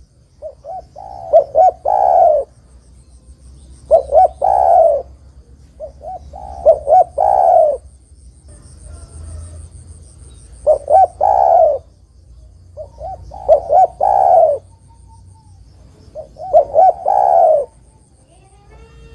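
Spotted dove (derkuku, tekukur) cooing: repeated phrases of two or three quick notes ending in a longer drawn-out coo, one phrase every two to three seconds. A faint high trill sounds behind the calls.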